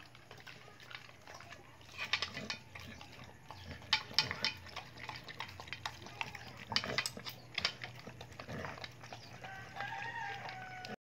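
An American Bully dog eating raw meat from a steel bowl, with scattered sharp crunches and clinks. A rooster crows near the end.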